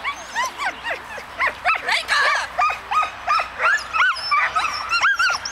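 Dog barking in a quick run of short, high-pitched yips, several a second, keeping up throughout, typical of a dog barking as it runs an agility course.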